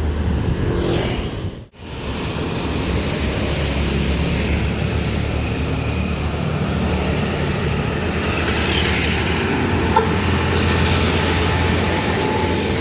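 Truck engines and road traffic running past, a steady low rumble with road noise. It drops out briefly to near silence about two seconds in.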